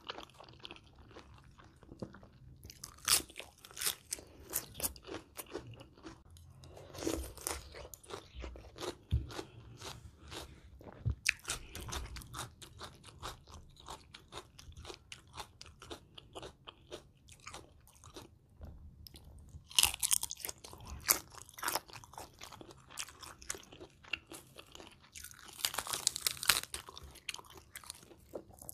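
Close-up eating sounds from a spicy salad of crisp shrimp and raw vegetables: irregular crisp crunches with quieter chewing in between. The crunching comes in denser, louder spells about two-thirds of the way through and again near the end.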